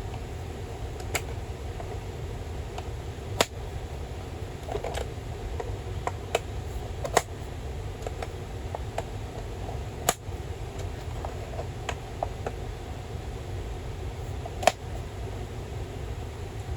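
Rain on an inflatable tent: a steady rushing noise with irregular sharp taps of heavier drops hitting the fabric, about a dozen of them, the loudest nearly fifteen seconds in.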